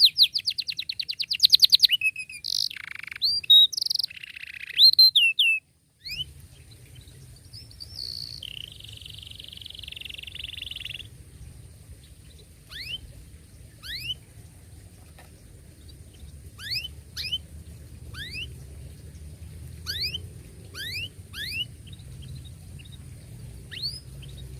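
Domestic canary song: loud, fast trills and rolls for the first five or so seconds, then after a short break a fainter passage with a low hum under it, where single downward-sliding 'cuit' chirps come about once a second.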